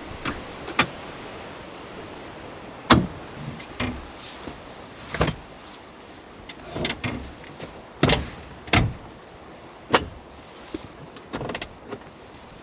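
A series of irregular knocks and clunks, about a dozen, some followed by short rattles, over a steady hiss.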